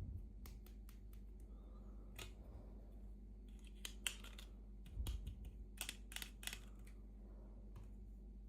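Light clicks, taps and brief scrapes of small plastic toy pieces and packaging being handled during an unboxing, scattered and irregular, with a small cluster about four seconds in and another around six seconds.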